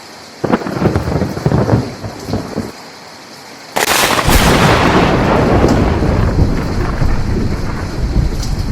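Thunderstorm with steady rain. A crackling thunderclap comes about half a second in, then a much louder clap starts suddenly near four seconds in and rumbles on through the rest.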